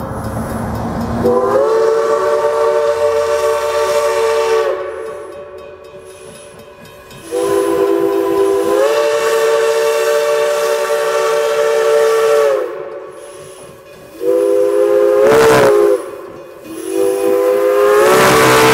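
Steam locomotive No. 98's whistle blowing a chord in four blasts, long, long, short, long: the grade-crossing signal. The engine hisses between the blasts.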